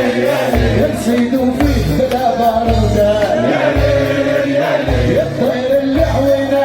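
Live southern Tunisian wedding song: a male singer over a band, with a wavering melody line and a heavy bass beat pulsing in regular blocks.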